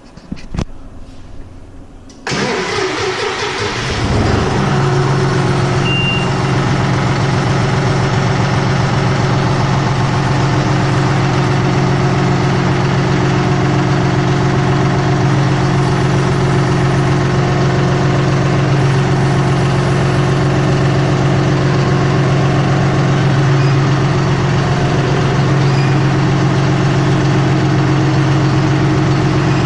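John Deere 5055E's three-cylinder diesel engine being started: a couple of clicks, then the starter cranks for about two seconds, the engine catches and settles into a steady idle. It starts readily because the block heater has kept the engine at operating temperature.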